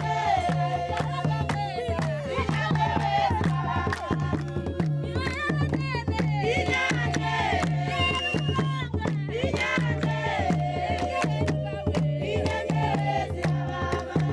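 Group of voices singing together over a steady drum beat, the voices sliding up and down in pitch.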